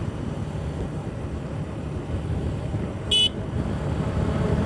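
Steady engine and road-wind noise from a Suzuki Gixxer SF's single-cylinder engine while riding along. About three seconds in there is one short, high beep, like a vehicle horn toot.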